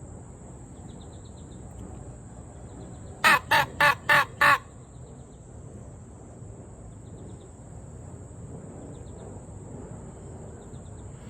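Primos mouth-blown crow call blown five times in a quick series of short, loud caws, imitating a crow.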